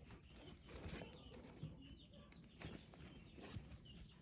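Near silence with faint bird chirps in the background and a few light clicks.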